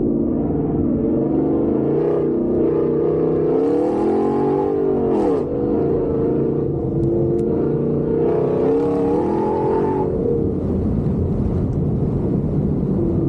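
Truck engine under load on a dirt course, its pitch climbing as it accelerates, dropping sharply about five seconds in, then climbing and easing off again near the end.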